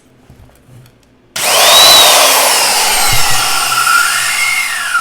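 Porter-Cable 7724 portable bandsaw (6-amp variable-speed universal motor) switched on about a second and a half in, running with a loud whine whose pitch slides as it runs. It is let off near the end and winds down.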